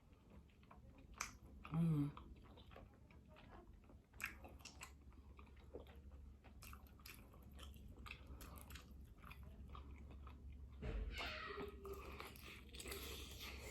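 Close-up mouth sounds of someone eating a seafood boil: chewing, wet smacking and crunching, with many small clicks. A brief louder voiced sound about two seconds in, and denser chewing near the end.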